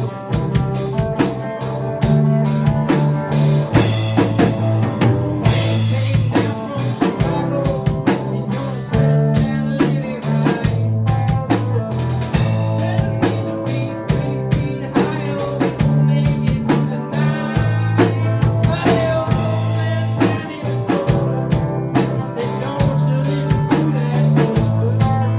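A band playing an instrumental break of a blues-rock song, with a drum kit keeping a steady beat under bass notes and guitar.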